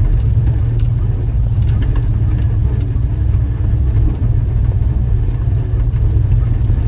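Jeep engine running steadily at low speed as the Jeep crawls over rock in low-range four-wheel drive, a low rumble with scattered light clicks and rattles throughout.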